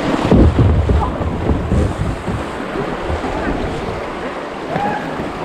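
Rushing river water with wind buffeting the microphone, its low rumbles heaviest in the first second.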